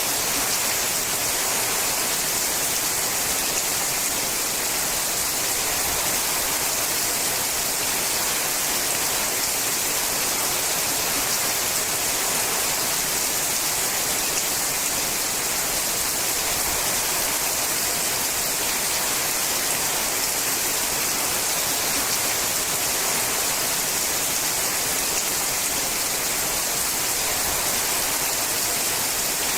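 Steady rain falling on a sheet-metal roof, an even hiss that does not change.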